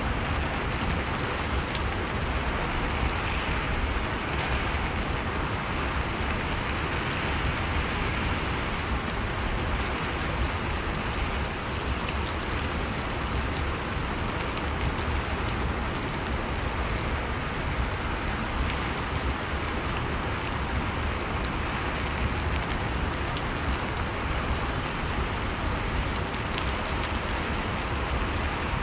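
Steady rain falling, a dense even hiss with scattered drop ticks and a low rumble underneath.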